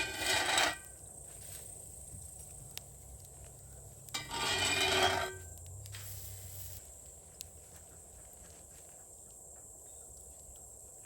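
Two short scraping, rubbing sounds, each about a second long and about four seconds apart, over a steady thin high tone.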